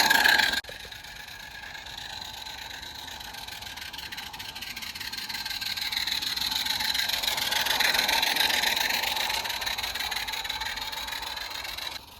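Model Baldwin locomotive running along garden railway track, a steady whirring whine. It grows louder toward about eight seconds in and then fades as it moves away. A louder sound cuts off suddenly just after the start.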